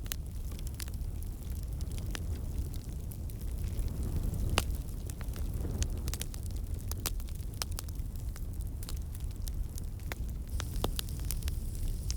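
Wood fire crackling in a fireplace: a steady low rumble of flames with frequent sharp, irregular pops and snaps, one louder pop a little over a third of the way in.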